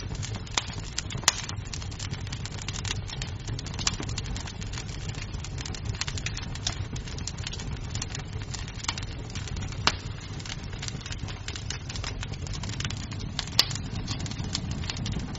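Wood fire crackling in a fireplace: dense small crackles over a steady low rumble, with a few sharper, louder pops.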